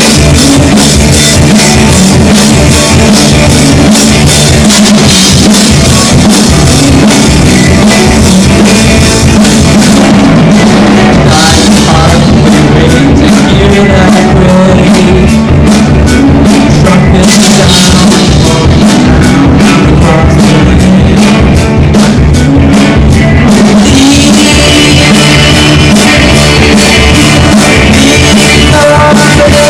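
Live rock band playing: drum kit, guitar and singing. The recording is loud and overloaded, pinned near full level, which gives it the bad, distorted sound.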